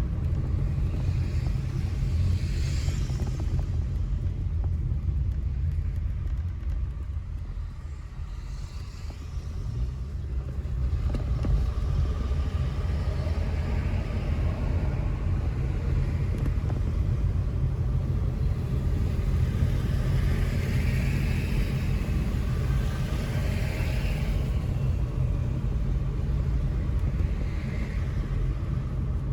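A car driving on town streets: a steady low rumble of engine and road noise that eases off about eight seconds in and builds again a few seconds later, with a few brief higher swells of noise.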